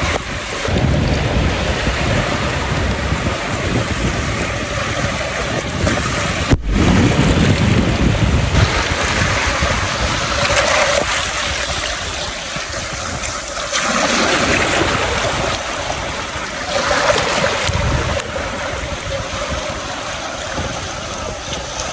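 Ocean surf washing onto a beach, swelling every few seconds as waves break, with wind buffeting the microphone.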